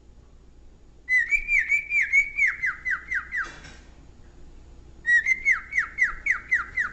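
Cockatiel whistling at its own reflection: two runs of quick repeated notes, about four a second, each sliding down in pitch. The first run starts about a second in and the second about five seconds in, with a short noisy burst between them.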